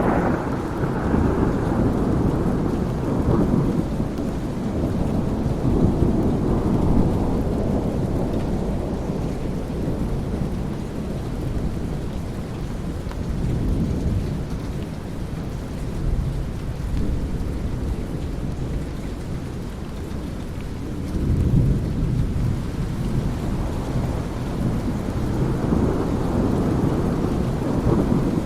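Thunderstorm: steady rain under low, rolling thunder that never stops. The thunder is loudest at the start and swells again about two-thirds of the way through and near the end.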